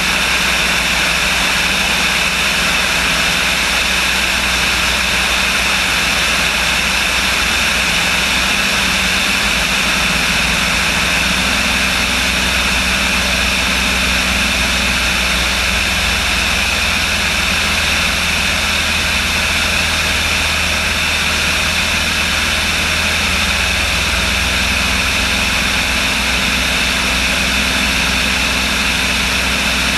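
Small propeller airplane's engine running steadily as a loud drone, its low note shifting slightly a few times with power changes.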